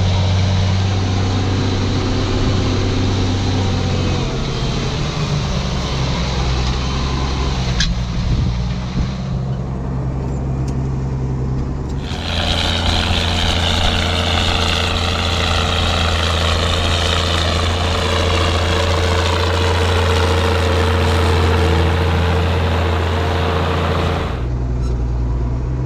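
Ford TW tractor's diesel engine running steadily under load while pulling a plough. The engine note shifts about four seconds in. From about halfway through to near the end, a loud hiss with a falling whine rides over it.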